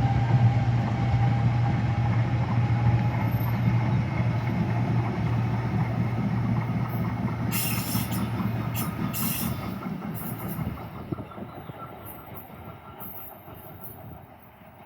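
NJ Transit train passing and moving away. Its steady low hum fades out about ten seconds in, and brief high squeals from the wheels come around the middle.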